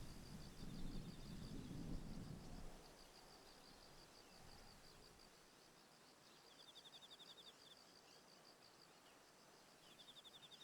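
Autumn insects chirping faintly and steadily in fast high pulses, with a second insect giving two short rapid trills about six and a half and ten seconds in. A low uneven rumble fades out about three seconds in.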